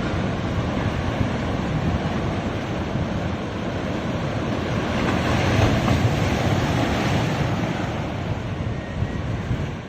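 Ocean surf washing continuously onto a beach, with a wave surging a little louder about halfway through.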